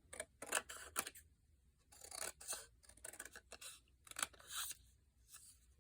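Scissors cutting paper: a series of short snips in quick clusters, with brief pauses between cuts.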